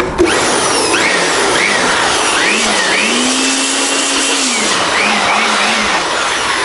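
Electric blower motor running hard, blasting air to blow built-up dust out of a wood router; its pitch dips and rises several times.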